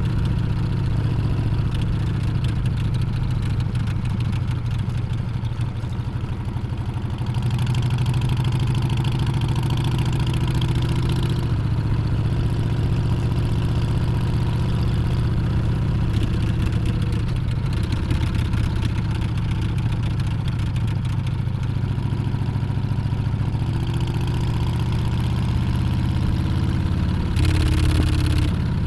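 Harley-Davidson Street Bob's Milwaukee-Eight 114 V-twin running under way, its note rising and falling with the throttle. It pulls harder for a few seconds about a quarter of the way in and again briefly near the end.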